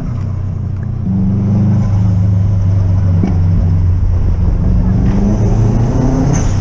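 A Subaru Impreza's flat-four engine heard from inside the car, pulling under load as the car picks up speed. Its pitch climbs and drops back at each gear change: about one second in, again about two seconds in, and near the end.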